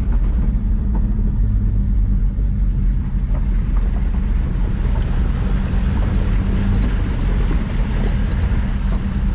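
Ford Ranger pickup's engine running steadily at low revs while driving through deep floodwater, with water washing and splashing against the truck.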